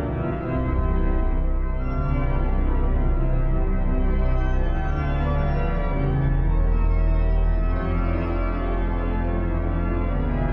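Refurbished synagogue sanctuary pipe organ playing sustained full chords over deep pedal bass notes that shift every few seconds.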